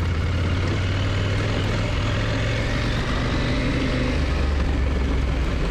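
KTM motorcycle engine running steadily while riding, a low even drone over a constant rush of noise.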